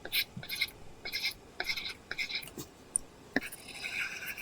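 Apple Pencil tip scratching across an iPad screen covered with a paper-texture film: quick short strokes about twice a second, then a tap and a longer drawn-out stroke near the end.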